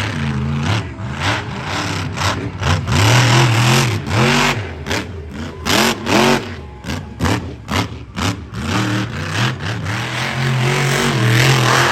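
Monster truck engine revving hard, its pitch climbing and dropping in quick repeated blips, then held at a steadier high rev near the end.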